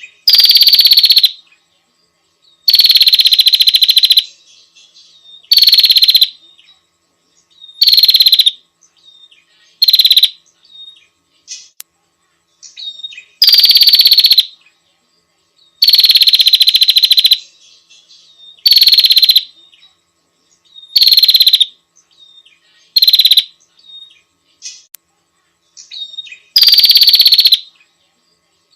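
Female prinia (prenjak) call played as a bird lure: loud, harsh chattering calls about a second long, repeated every two to three seconds, with faint short chirps between.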